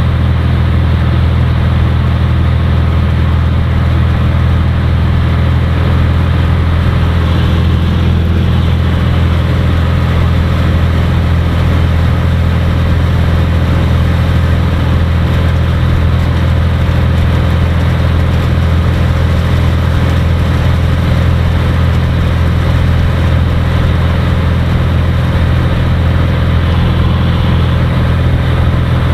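Cirrus SR20's four-cylinder piston engine and propeller running at a steady, unchanging power, a continuous low drone heard inside the cabin.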